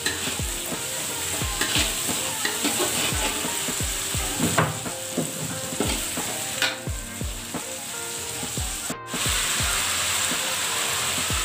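Chili sambal frying and sizzling in a wok while a metal spatula stirs and scrapes through it.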